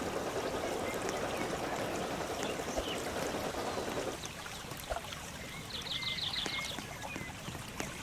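Running water: a steady rush that stops suddenly about four seconds in, leaving a quieter background.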